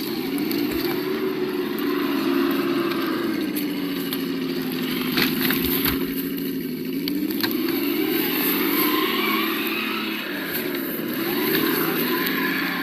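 Simulated engine sound from an RC crawler's sound module, rising and falling in pitch several times as the throttle is worked, with a few short clicks around the middle.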